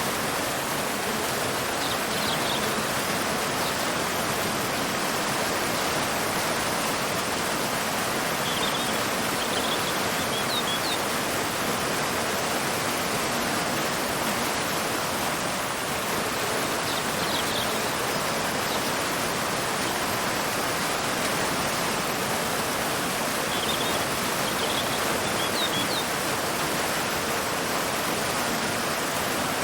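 A waterfall pouring steadily into a river, a constant rushing of water. A bird chirps briefly in short clusters several times.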